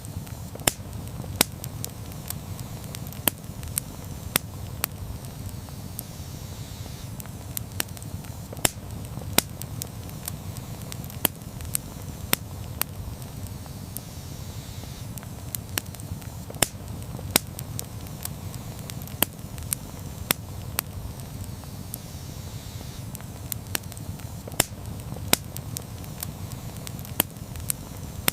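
Wood campfire burning, with a steady low rush of flames and irregular sharp crackles and pops several times a second.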